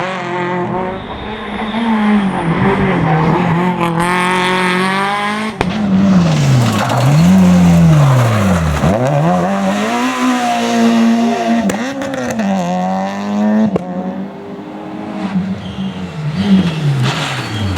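Rally car engine revving hard, its pitch climbing and dropping again and again through gear changes and lifts, with sudden breaks at the shifts.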